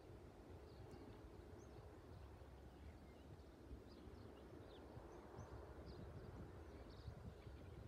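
Near silence: faint, scattered bird chirps over a low steady rumble.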